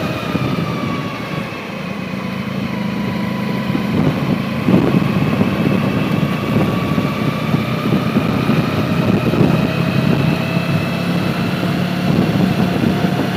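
Motorcycle engine running steadily on the move, with a faint whine that slowly dips and rises in pitch.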